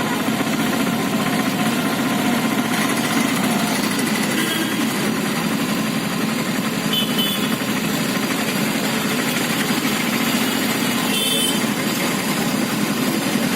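A small vehicle engine running steadily with a fast, even beat. A few brief faint high tones sound over it.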